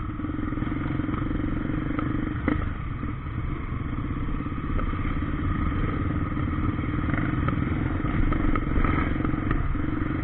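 Motorcycle engine running steadily under way on a dirt trail, with clattering and a sharp knock about two and a half seconds in.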